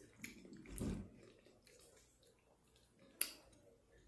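Faint, wet close-mic chewing of a mouthful of spaghetti with the mouth closed. There is a low swell just before one second in and a single sharp click about three seconds in.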